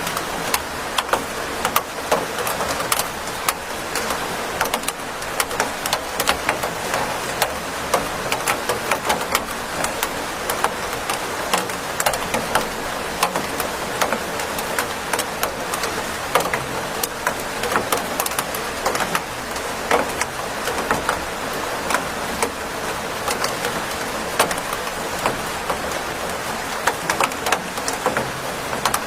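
Steady rain with a constant hiss and many sharp, separate drops tapping close by.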